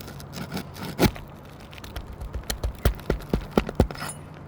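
Hand tools knocking and scraping on old three-tab asphalt shingles as roofing nails are worked loose: one sharp knock about a second in, then a quick run of knocks and clicks, about four a second.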